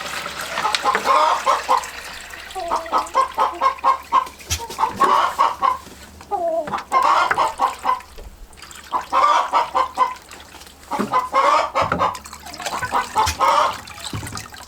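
Chickens clucking in repeated short runs of rapid clucks, with a few calls sliding down in pitch.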